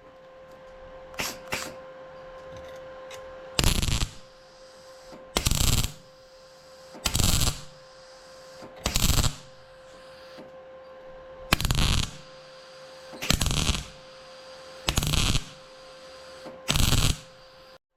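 Welder laying a series of short tack or stitch welds on car body sheet metal: about eight crackling bursts, each about half a second long and roughly two seconds apart, over a steady hum.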